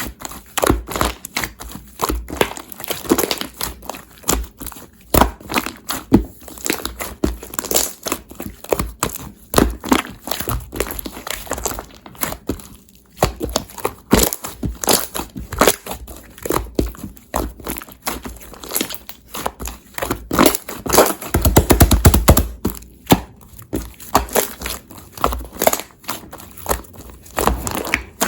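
Continuous rustling and crinkling with many small irregular clicks, like close handling or crumpling noise. A heavier low rumble lasts for about two seconds roughly three-quarters of the way through.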